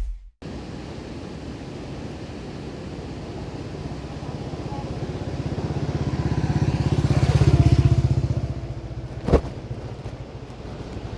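Harley-Davidson Street 750's V-twin engine running through a Screamin' Eagle exhaust, with a pulsing beat. Its revs climb steadily, peak about eight seconds in, then fall off, and one sharp knock comes soon after.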